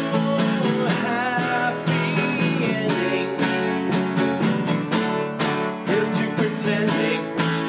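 Live band playing the opening of a song: strummed acoustic guitars over a steady cajon beat.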